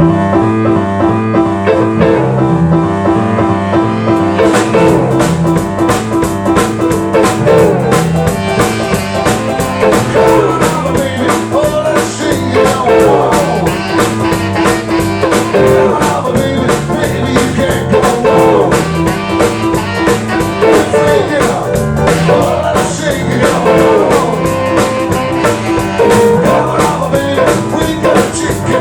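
Live band playing a blues-rock number with keyboard, bass and guitar. The drum kit comes in about four and a half seconds in and keeps a steady beat.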